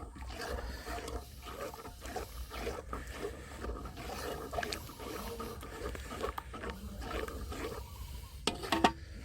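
Curry paste and oil frying and bubbling in a pot over the fire, a steady crackling with low rumble, with a few sharp clicks near the end.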